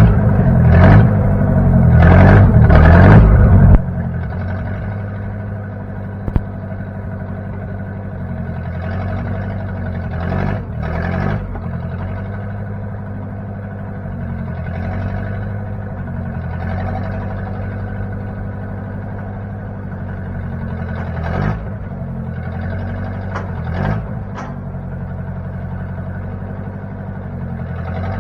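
Engine of a 1960 Case 540 backhoe running, louder and working harder for the first few seconds, then dropping back to a steady, lower running about four seconds in. A few brief clicks sound over it.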